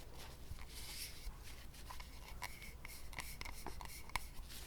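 Soft, close-miked ASMR mouth sounds: scattered wet clicks and smacks of lips and tongue.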